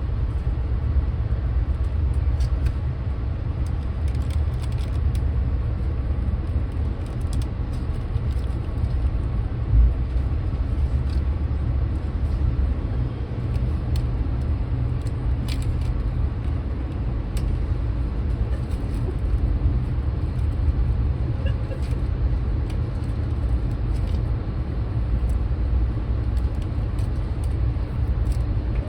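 Steady low rumble of a moving train, with scattered light clicks and a single low thump about ten seconds in.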